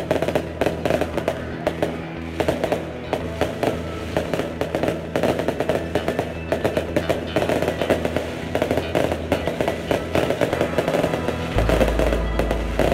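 A dense barrage of bottle rockets and firecrackers going off, crackling and popping many times a second without a break, over background music whose deeper bass comes in near the end.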